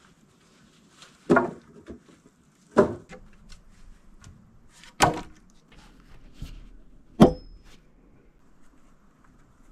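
Four heavy knocks on wood, about one and a half to two seconds apart, with lighter taps between them.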